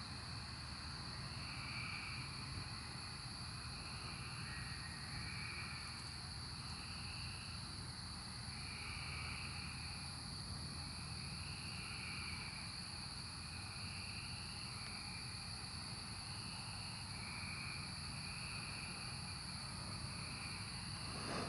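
Chorus of Brood XIX 13-year periodical cicadas: a steady high-pitched drone, with a lower call swelling and fading about every second and a half.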